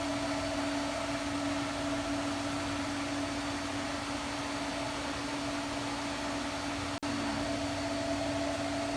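Steady machine hum with a constant drone and fan-like hiss, dropping out for an instant about seven seconds in.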